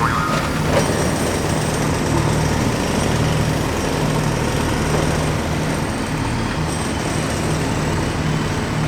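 Heavy diesel vehicle engine running steadily at an even pace.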